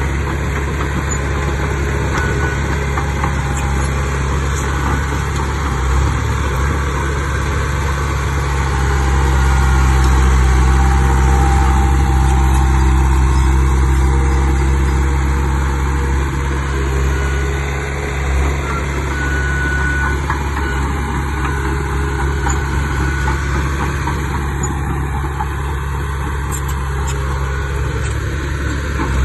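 Heavy diesel engine of earthmoving machinery running steadily, growing louder for several seconds about a third of the way in and then easing back.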